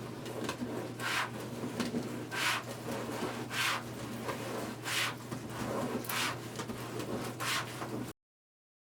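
Rustling of fabric mesh and burlap ruffles being handled and fluffed on a wire wreath form, in six short strokes about one every 1.2 seconds, over a steady low hum; it cuts off suddenly near the end.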